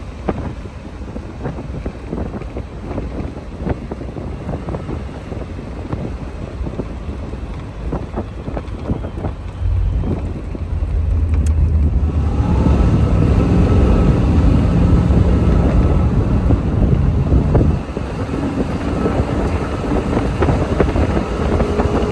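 1969 Corvette's 427 big-block V8 driving, with heavy wind noise on the microphone. About ten seconds in the engine grows louder and its pitch climbs as it accelerates, then the note drops off suddenly near eighteen seconds as the throttle is lifted.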